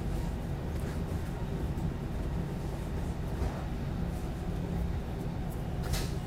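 Steady rumble of a moving passenger train heard from inside the carriage, with a single sharp click near the end.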